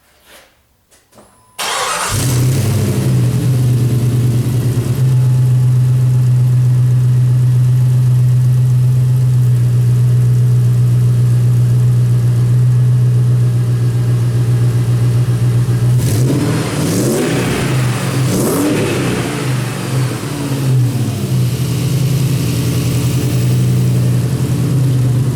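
Jeep 4.7 PowerTech V8 starting about a second and a half in and running steadily after a fresh timing-chain replacement. It is briefly revved up and down a few times past the middle.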